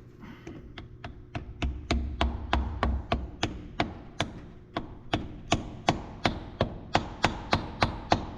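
Ratchet wrench clicking in a steady rhythm, about three clicks a second, while a battery cable terminal clamp is being tightened onto the battery post.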